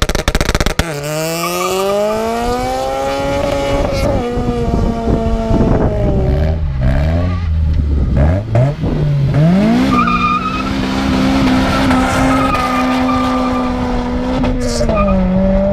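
A car engine revving hard, its pitch climbing over the first few seconds, dropping back in the middle, then climbing again and holding at high revs before easing near the end, with tyres squealing at times.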